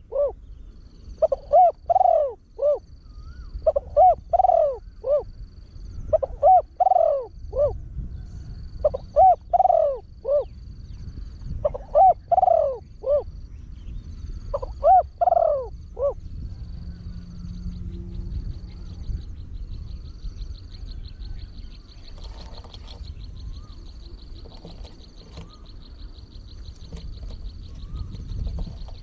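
Spotted dove (a trained decoy bird) cooing with a deep voice: seven phrases of three or four notes each, repeated about every two seconds, stopping a little after halfway.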